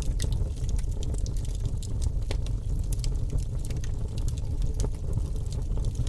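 Wood fire crackling in a fireplace: frequent irregular snaps and pops over a steady low rumble.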